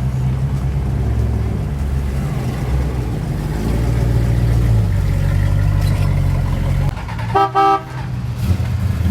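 Car engine rumbling at low revs as a car moves off, then a car horn toots twice in quick succession about seven and a half seconds in, a parting honk.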